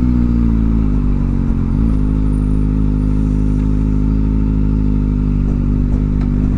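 Kawasaki Ninja ZX-4R inline-four engine, fitted with a new aftermarket exhaust, running at steady revs while riding, with a brief rise in revs just before two seconds in.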